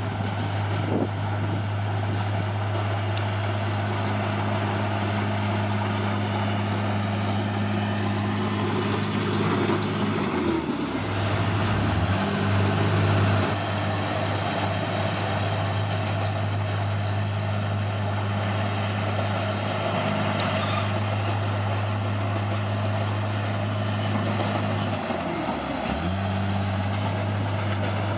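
Caterpillar D6R bulldozer's diesel engine running steadily under work. Its note dips briefly and recovers twice, about ten seconds in and again near the end.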